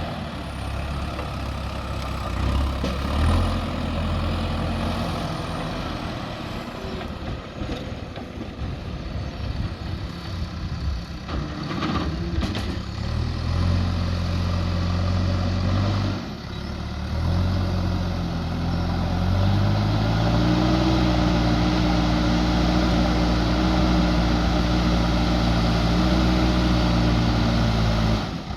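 JCB 3DX backhoe loader's diesel engine running, with a couple of knocks about twelve seconds in. About twenty seconds in its pitch rises and then holds steady at higher revs.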